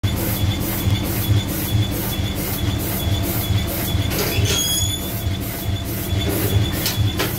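Steamship's reciprocating steam engine running at a steady pace, beating about four times a second over a steady hum. A brief rising squeak comes about four seconds in, and a couple of knocks near the end.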